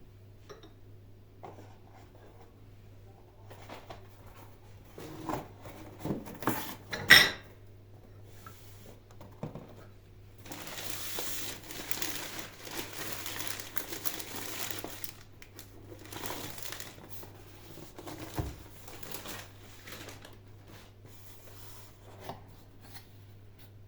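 Packaging being handled, crinkling and rustling, with a sharp knock about seven seconds in and a longer stretch of rustling from about ten to fifteen seconds in.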